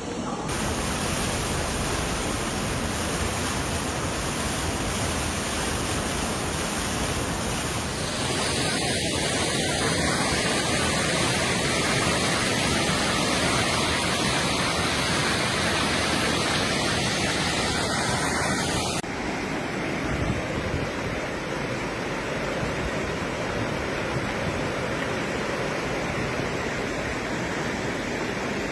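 Floodwater rushing through streets: a loud, steady roar of running water. The sound changes abruptly about a third and two thirds of the way through, as three separate recordings follow one another.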